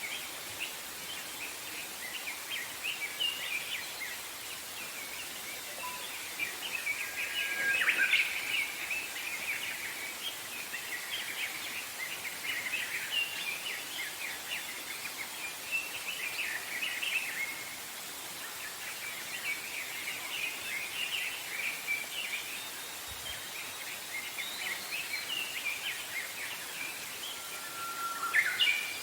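Many small songbirds chirping and twittering in a forest, one call after another, over a steady hiss of outdoor ambience. A louder burst of song comes about eight seconds in and again near the end.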